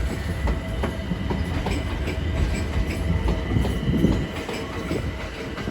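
London Overground Class 378 electric multiple unit pulling out of the platform: a steady low rumble with scattered clicks from the wheels and a thin steady high tone, swelling briefly about four seconds in.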